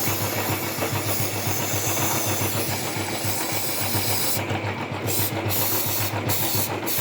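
Chain lube spraying with a hiss onto the drive chain of a Royal Enfield Bullet idling in first gear on its stand, its rear wheel and chain turning: one long spray, then short squirts from about four and a half seconds in. The single-cylinder engine thuds steadily underneath. The chain, loosened and noisy after a long ride, has only a light chatter left.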